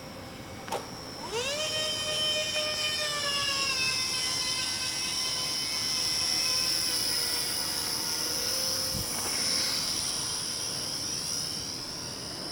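Remote-control model airplane's motor and propeller whining. The whine swoops up in pitch about a second in, then slowly falls for the rest of the time, with a short click just before the swoop.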